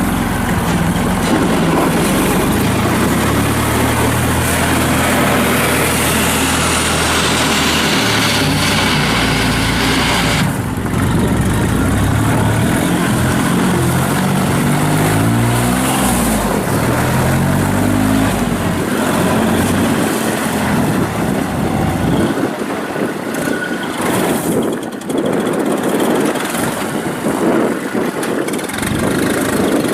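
Kubota L39 tractor's diesel engine running, its speed rising and falling over and over. Its deepest tones fall away about two-thirds of the way through.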